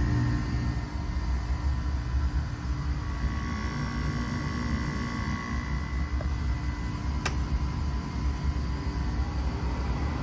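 Frigidaire 5,000 BTU window air conditioner running steadily, a low hum with its fan blowing. A single sharp click comes about seven seconds in.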